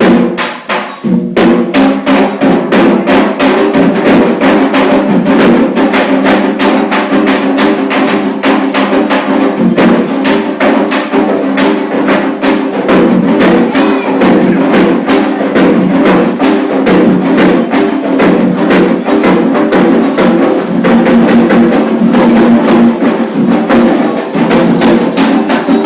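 Loud, fast, dense percussion of a religious drumming rite for Xangô. It sets in fully about a second in and keeps a steady driving rhythm.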